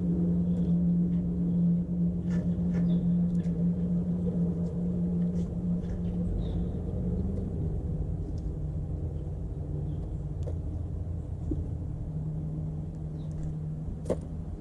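A steady low motor hum with a rumble under it, dropping slightly in pitch about halfway through. Faint, short bird chirps sound above it.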